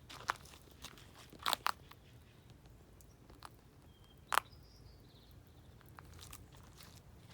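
A few sharp knocks or clicks: a single one, then a quick pair, then the loudest one, with faint high chirps in the background.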